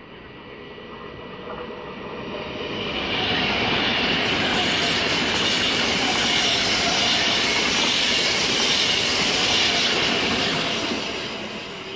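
Frecciabianca electric passenger train passing at speed: wheel-on-rail running noise that builds over the first few seconds, holds loud through the middle, and fades near the end.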